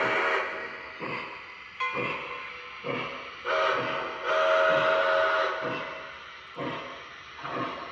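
Model steam locomotive's sound system blowing its steam whistle. A blast ends just after the start, and a short blast followed by a longer one comes about halfway through, over chuffs about once a second.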